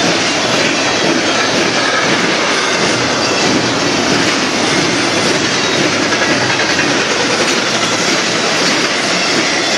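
Double-stack intermodal freight cars rolling past: a steady, loud noise of steel wheels running on the rails.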